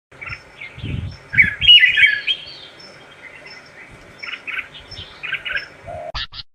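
Red-whiskered bulbul singing in short, bubbly phrases of chirps, in two groups, loudest about two seconds in. Two sharp clicks near the end.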